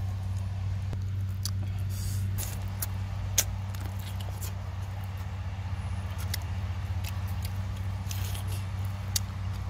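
Close-up eating sounds: scattered sharp clicks and crunches of a person biting and chewing cooked chicken feet, the sharpest about three and a half seconds in, over a steady low hum.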